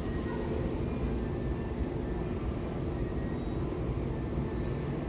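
Steady low rumble of outdoor noise with a faint, even hum.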